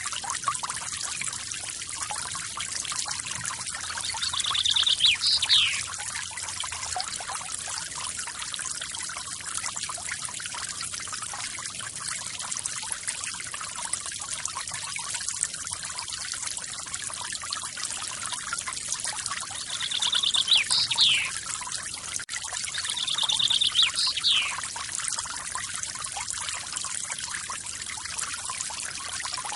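Steady splashing rush of a small forest waterfall, with a songbird singing three times: about 4 seconds in, and twice around 20 to 24 seconds in. Each song is a quick trill ending in a sharp downward sweep.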